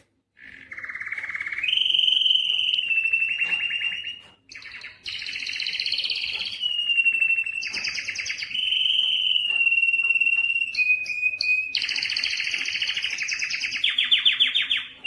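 Domestic canary singing a long, continuous song of rapid trills and sustained whistled notes. It switches to a new phrase every second or two, with short breaks about half a second in and again after about four seconds.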